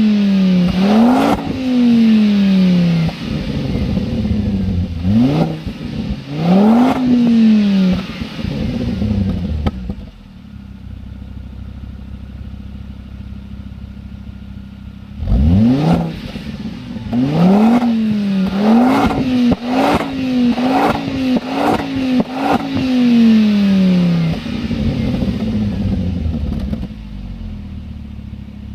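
Ford Focus ST's 2.5-litre turbocharged five-cylinder engine through a Supersprint exhaust, revved again and again and dropping back to idle, with a steady idle for about five seconds in the middle, then one big rev and a quick run of short blips. A short sharp sound comes as each rev is released, from the turbo's blow-off valve.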